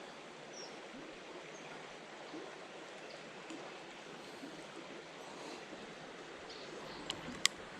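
Steady rush of a flowing creek, with two sharp clicks near the end, the second louder.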